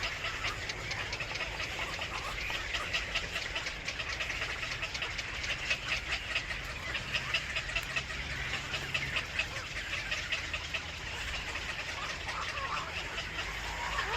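Birds calling in a rapid, continuous stream of short high chirps, over a low steady rumble.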